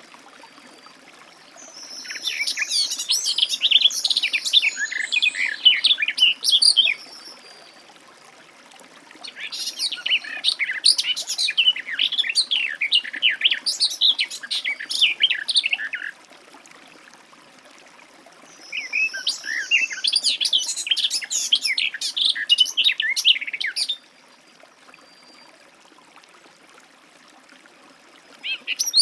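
Garden warbler singing: three long, rapid, warbling phrases of several seconds each, separated by short pauses, with a fourth phrase beginning at the very end.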